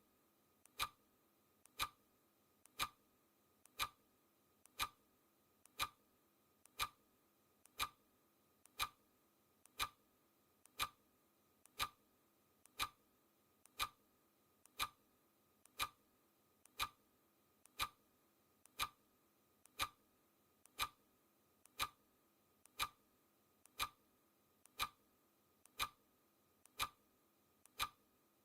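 Clock ticking steadily, one sharp tick a second, each with a faint click just before it.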